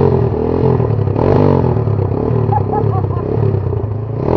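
Enduro motorcycle engine revving, its pitch rising and falling again and again.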